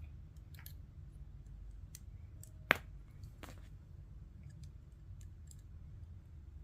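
Plastic Lego pieces being handled and clicked together, with a few scattered light clicks and one sharp click about two and a half seconds in, over a low steady hum.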